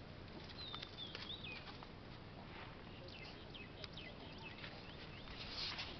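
Faint outdoor ambience with a few short bird chirps that slide in pitch, and some soft scuffs and clicks.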